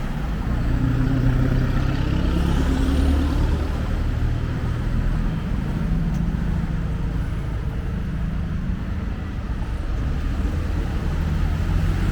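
Street traffic: engines of nearby vehicles running with a steady low hum, one rising in pitch as it speeds up about two seconds in.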